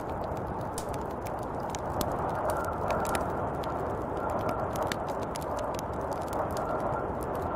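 Snowstorm wind blowing steadily, with many small sharp ticks scattered throughout.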